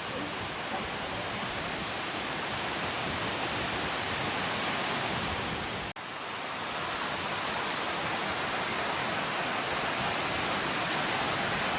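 Waterfall's rushing water: a steady, dense hiss. It drops out for an instant about halfway through and then carries on.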